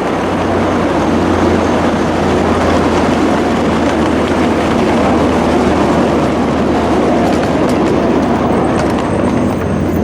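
A train passing close by: the loud, steady running noise of its wheels on the rails.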